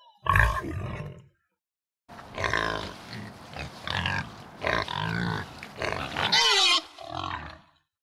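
Pigs grunting and squealing: a short burst of grunts, then after a brief gap a run of repeated grunts and squeals. The loudest is a high squeal that falls in pitch near the end.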